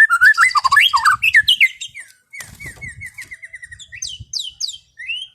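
White-rumped shama (murai batu) singing a varied whistled song. It opens with loud swooping phrases, then gives a quick run of about ten repeated notes, then several fast high falling notes.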